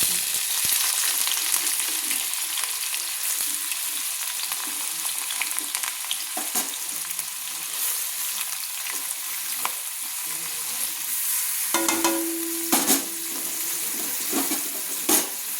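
Sliced onions sizzling steadily in hot oil in a kadai, with a few sharp clicks as they are stirred. A brief low hum sounds for about a second near the end.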